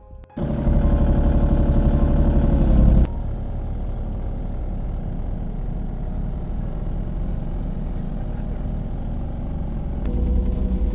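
Vehicle engine running steadily. It comes in abruptly about half a second in and drops to a lower level about three seconds in.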